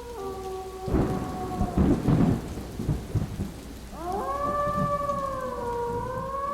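Synthesizer music: a held chord gives way about a second in to a rumbling, thunder-like noise effect with irregular surges. About four seconds in a new chord swells in, sliding up in pitch and then wavering slowly like a howl.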